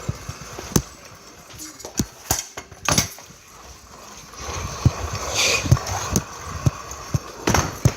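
Kick scooter being ridden: irregular clacks and knocks, with a stretch of rolling noise and a scrape about halfway through.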